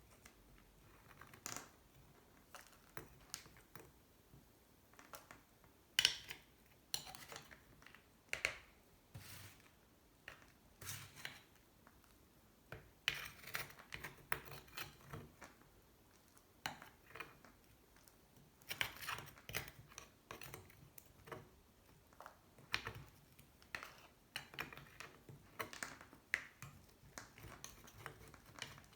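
A spoon scraping caked oil, sand and saltwater gunk out of an aluminium motorcycle engine case: irregular short scrapes and clicks.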